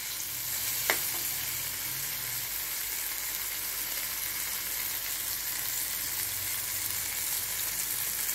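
Chicken pieces with onions and curry leaves sizzling in oil in a kadai over a medium flame: a steady frying hiss, with one sharp click about a second in.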